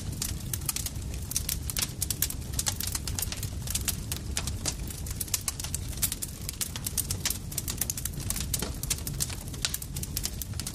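Campfire crackling: dense, irregular pops and snaps over a steady low rumble of burning wood.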